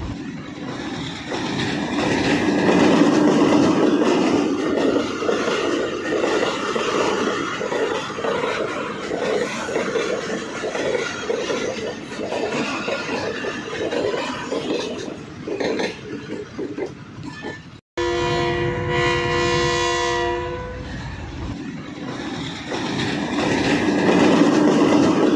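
Pakistan Railways train running along the track, a steady rumble with a rhythmic clickety-clack of wheels over rail joints. After a sudden break about 18 seconds in, the locomotive's horn sounds one held blast of about three seconds, then the running noise carries on.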